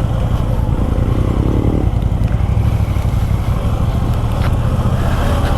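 Motorcycle riding along: steady engine rumble mixed with wind rush on the microphone, with a brief rising engine note about a second in.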